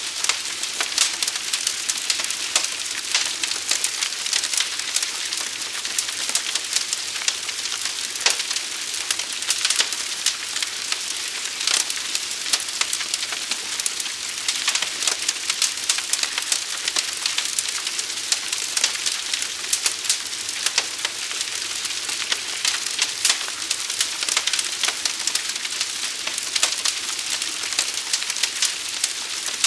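Forest fire burning: a steady hiss thick with dense, irregular crackles and pops.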